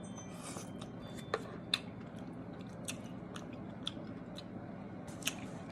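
Close-up chewing of a mouthful of sautéed mushrooms and greens, with scattered wet mouth clicks and smacks about once a second.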